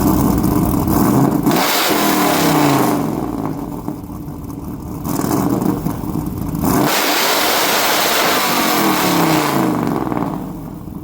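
Supercharged 5.3-litre V8 revving through a 3-inch exhaust with a Magnaflow straight-through muffler that exits out the bedside. The revs rise and fall twice, the pitch sliding down as each rev drops back.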